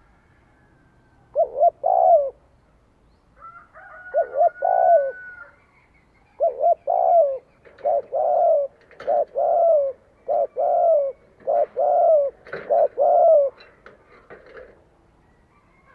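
Spotted dove cooing: two short phrases of low coos, then about halfway in a quicker run of repeated coos that ends near the end. This is a decoy male's territorial cooing, used to lure wild doves.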